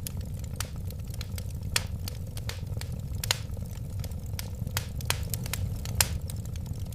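Wood fire burning, with a steady low rumble of flames and irregular sharp crackles and pops of burning wood. The loudest snaps come about two, three and six seconds in.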